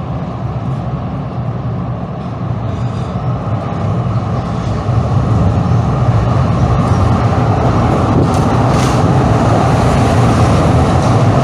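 Calgary CTrain light-rail train rumbling steadily, growing louder about five seconds in.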